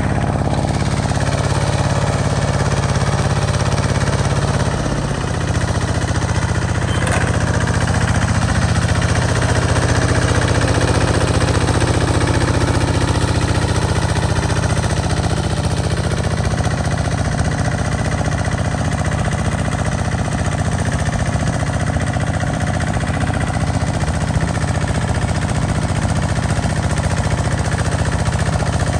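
Engine of a two-wheel walking tractor running steadily while it plows a field, with its note shifting slightly about five seconds in.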